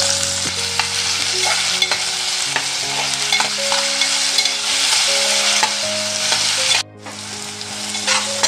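Chopped onion and tomato sizzling in hot oil in a kadai, stirred with a spatula that scrapes against the pan. The sound cuts out for a moment about seven seconds in, then returns.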